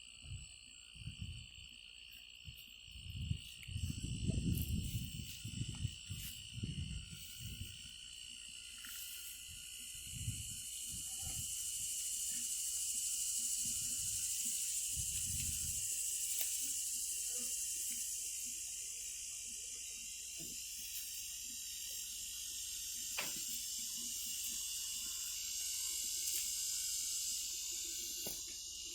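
Steady high-pitched insect drone with a shrill hiss that swells through the middle, and low rumbling thumps during the first half.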